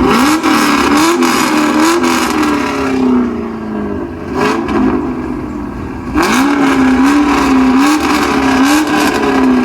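Car engine being revved through its exhaust in quick repeated blips, the pitch rising and falling several times. There are two loud runs of revs with a lower stretch and a single short blip between them.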